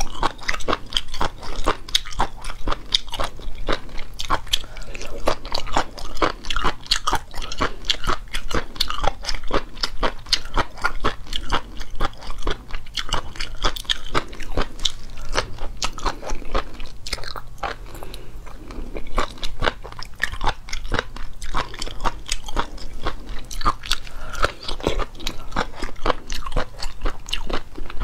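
Close-miked eating: a person biting and chewing a crunchy, rubbery food in rapid, continuous crunches, with a short lull about seventeen seconds in.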